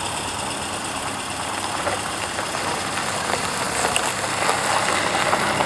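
Car engines running at low speed as cars file past: a steady engine rumble with no one speaking over it.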